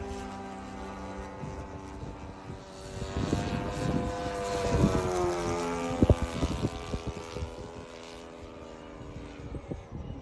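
Small engine of a remote-control model aeroplane buzzing overhead, like a lawnmower or whippersnipper. It grows louder and its pitch dips as it passes around the middle. A few low knocks come in the middle, the sharpest about six seconds in.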